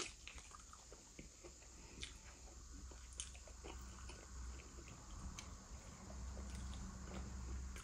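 Faint close-up chewing and mouth sounds of someone eating barbecued catfish and chips, with scattered small clicks.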